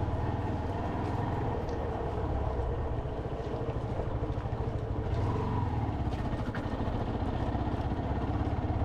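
Motorcycle engine running steadily while under way, a continuous low drone with no sharp changes.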